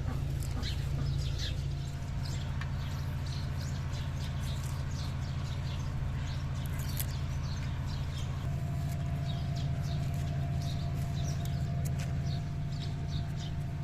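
Small birds chirping over and over, with a steady low rumble underneath that is the loudest part; a faint steady tone comes in about two-thirds of the way through.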